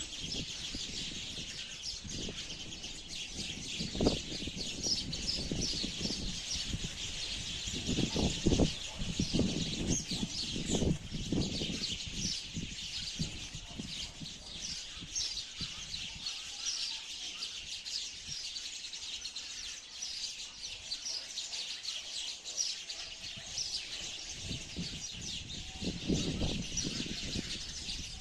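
Sparrows chirping continuously, many short high chirps overlapping like a flock chattering. Low rustling thumps come and go underneath, the sharpest about four seconds in and a cluster around eight to twelve seconds.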